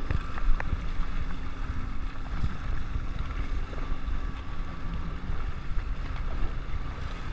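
Jet ski engine running while under way, with wind buffeting the microphone in a low, uneven rumble.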